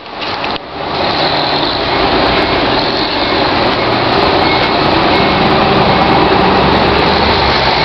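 Volvo semi-truck's diesel engine running steadily, a loud even noise after a short drop in level in the first second.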